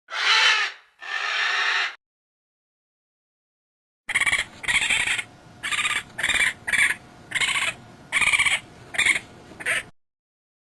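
Harsh animal calls: two long cries in the first two seconds, then, after a gap, a run of about nine shorter calls.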